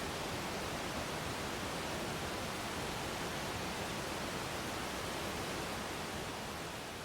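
Waterfall: water pouring and splashing in a steady, even rush. It begins to fade out near the end.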